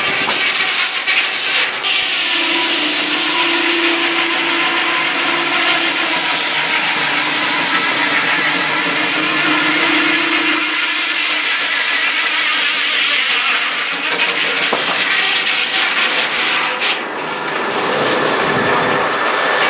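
Sawmill saw running loud and steady while cutting through wood, with a brief drop in level near the end.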